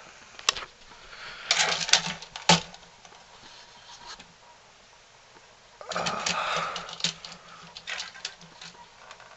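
Handling noise: scattered clicks and rustling, in two bursts about a second and a half in and about six seconds in, with a quieter stretch between.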